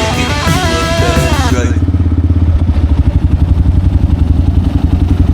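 A motorcycle engine running steadily under way, loud and close, with a low pulsing rumble. Rock music fades out over the first second or two.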